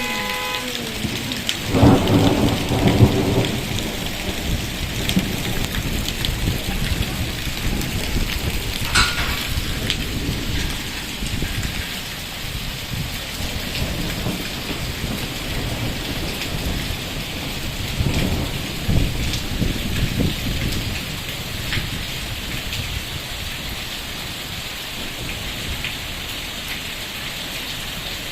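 Heavy rain falling steadily, with rainwater streaming down a road. Louder low rumbles swell about two seconds in and again about two-thirds of the way through.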